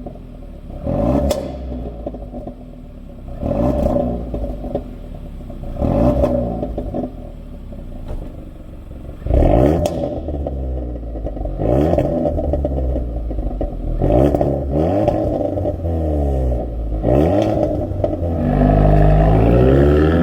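Kia K3 GT's 1.6-litre turbo four-cylinder revved through a Veloster N exhaust: about seven throttle blips a couple of seconds apart, each rising and falling back toward idle, then held at higher revs near the end.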